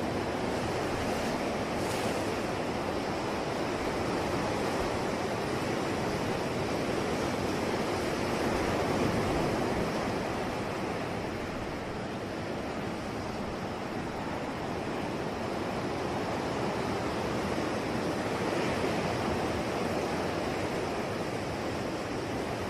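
Ocean surf: waves washing continuously onto a shore, an unbroken hiss that swells gently and eases again every several seconds.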